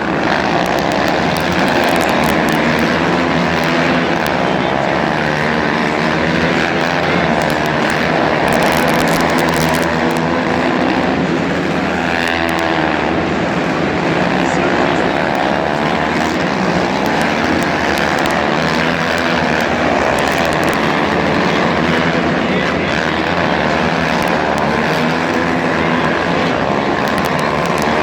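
Monster truck engines, supercharged big-block V8s, running and revving loudly without a break, the pitch rising and falling as the throttle changes. A voice, likely the PA announcer, may be mixed in underneath.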